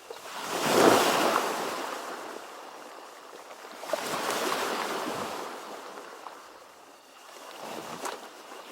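Ocean waves breaking and washing up the shore in slow surges: three swells, the loudest about a second in, another around four seconds and a smaller one near the end, each rising and fading away.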